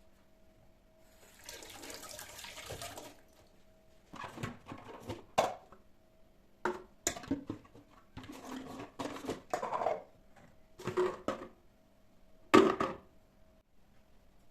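Kitchen tap water running for about a second and a half, then dishes and utensils clattering and knocking in a string of separate strikes, the loudest near the end.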